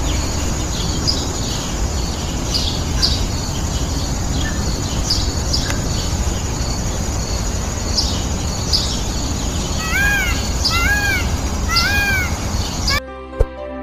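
Small birds chirping over a steady outdoor background noise, with three louder arched bird calls about a second apart near the end. Just before the end the sound cuts off suddenly into music with plopping clicks.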